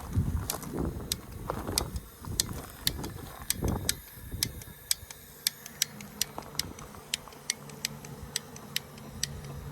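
Several short puffs from a bee smoker's bellows in the first four seconds, over a steady high clicking, about two or three clicks a second.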